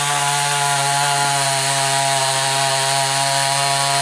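Two-stroke chainsaw running at steady high revs as it cuts through a standing dead fir to fell it.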